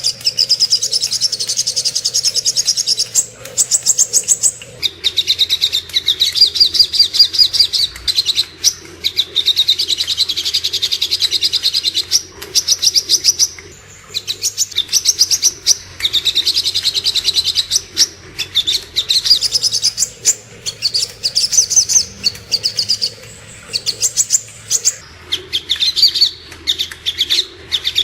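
Sogok ontong (little spiderhunter) singing: rapid, high-pitched trills of quick repeated notes, in runs of one to two seconds with short gaps between them, over and over.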